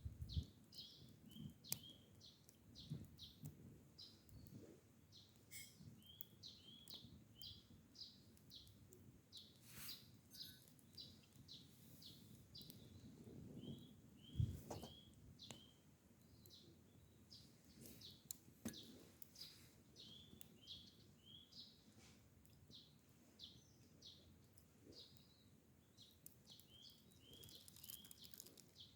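Birds chirping faintly in quick runs of short, high, falling notes, with scattered light clicks and one soft thump about halfway through.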